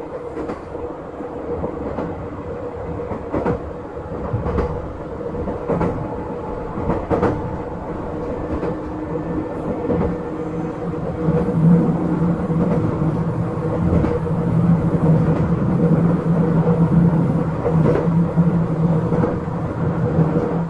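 Izukyu 8000 series electric train running along the line: a steady rumble and hum with scattered clacks of the wheels over rail joints. About halfway through, a low drone comes in and the sound grows louder.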